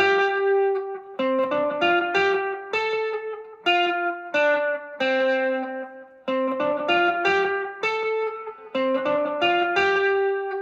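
Gretsch electric guitar played on its bridge humbucker through an amplifier: a short picked single-note phrase repeated several times, each note ringing clearly with bright overtones.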